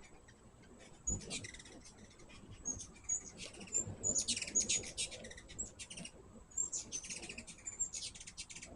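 Hummingbirds chipping and chattering at a feeder: short high chips, with several bursts of rapid, buzzy chatter.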